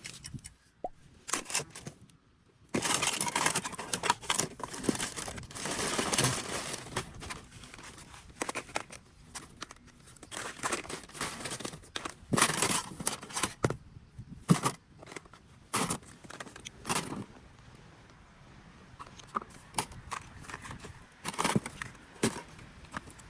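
Close-up hand-work on a broken smartphone: a stretch of scraping and crinkling, then scattered sharp clicks and scrapes as parts are pried and handled.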